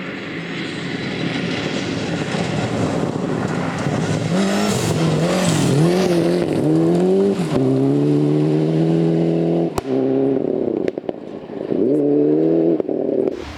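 Rally car engine driven hard, getting louder as it nears, its revs rising and falling through gear changes and then held high. About ten seconds in the revs drop briefly with a sharp crack and a few pops, then climb again before the sound cuts off suddenly near the end.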